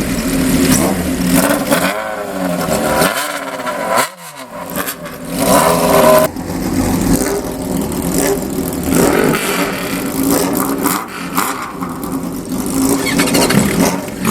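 Exhaust note of old Japanese motorcycles running together, idling with repeated throttle blips, revs rising and falling several times.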